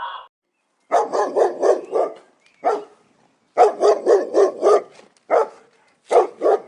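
A dog barking in quick runs of several barks, about four a second, with single barks between the runs.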